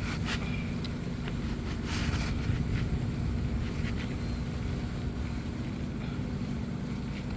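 Steady low outdoor rumble, with a few faint clicks or taps.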